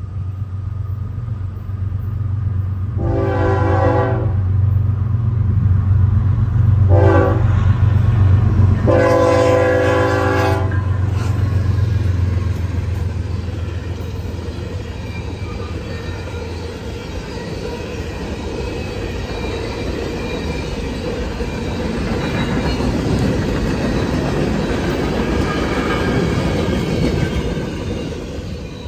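A passing train's locomotive sounding its horn three times, the last blast the longest, over a steady low engine drone. This is followed by the rolling clatter of the train's cars going by.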